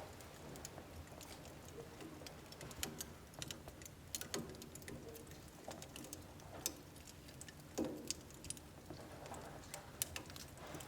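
Wood fire in a household wood-burning stove crackling, with irregular sharp pops and snaps from the burning logs over a low steady rumble. A few louder pops stand out among the smaller crackles.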